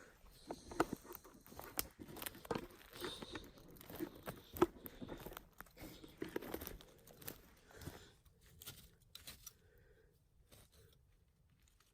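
Footsteps crunching and crackling through twigs and dry leaf litter on a forest floor, in an irregular run of steps that thins out near the end.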